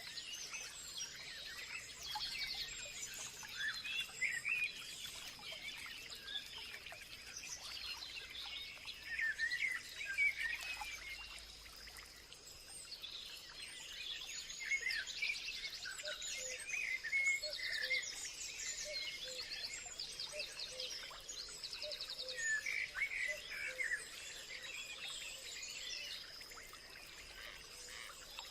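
Several songbirds chirping and trilling over one another in a continuous chorus, above a thin, steady high-pitched tone.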